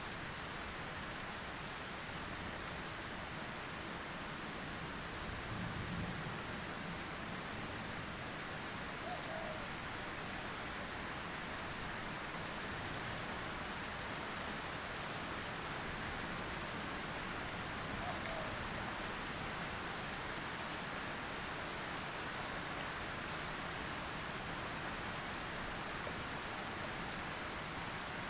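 Steady rain falling, with individual drops ticking on a surface. There is a brief low rumble about six seconds in.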